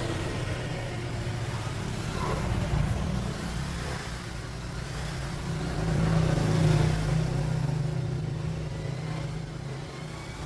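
An engine running steadily, its pitch and loudness swelling twice, as if revved or put under load.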